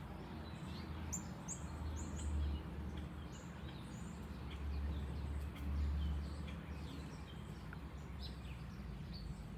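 Small birds chirping repeatedly in short, high, falling notes over a low rumble that swells twice.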